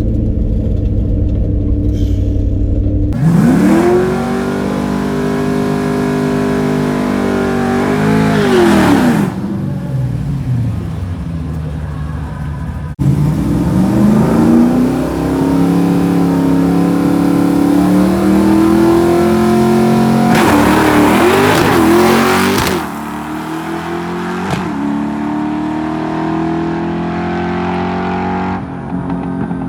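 Drag car engine launching and accelerating hard down the strip, its pitch climbing steeply and dipping and rising again at gear changes. A low steady engine note comes before it, and an abrupt cut about 13 seconds in leads into a second hard run.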